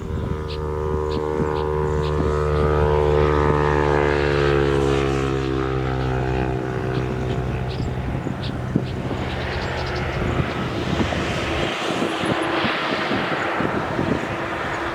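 An engine passing by: its drone falls slowly in pitch over the first several seconds, then gives way to a broad rushing noise. Short high chirps, typical of small birds, sound through it.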